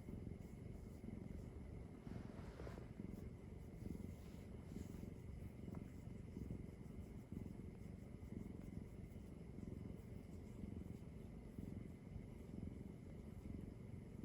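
Domestic cat purring steadily and close up, a low, evenly pulsing rumble.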